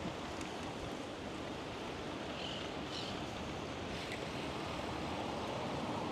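Steady rushing noise of wind on the camera microphone and bicycle tyres rolling, with a few faint, short high chirps in the middle.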